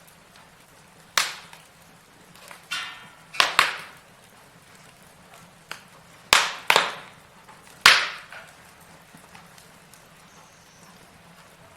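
Logs burning in a fireplace, crackling with scattered sharp pops, the loudest a handful of cracks between about one and eight seconds in, with a short hiss about three seconds in.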